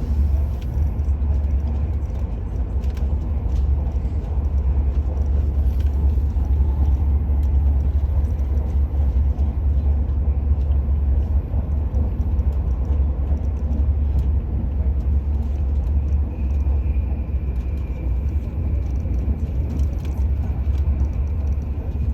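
Steady low rumble and running noise inside the cabin of the Al Boraq high-speed train in motion, with a faint high tone joining about two-thirds of the way through.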